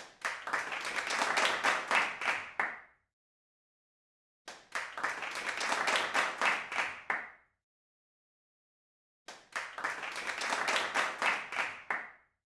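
Hand clapping from a small group, three bursts of about three seconds each with silence between, each one tailing off at its end.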